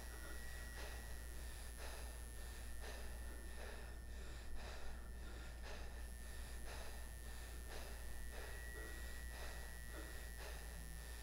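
Quick, faint, shaky breaths of a frightened man trying to stay quiet, about two breaths a second.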